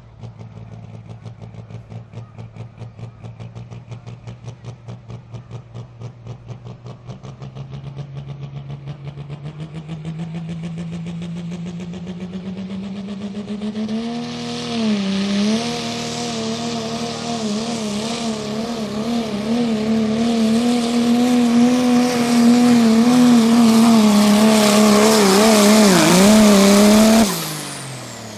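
Turbo-diesel pickup truck making a truck pull. The engine pulses at low revs, then climbs steadily in pitch and runs hard at high revs with a growing hiss and a wavering note. It cuts off suddenly near the end, leaving a falling whistle as the turbo winds down.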